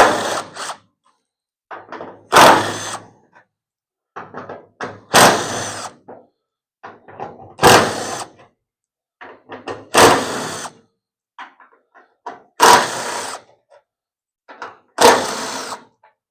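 A regular series of seven loud clunking knocks, about one every two and a half seconds, each preceded by light clicks and trailing off over about half a second.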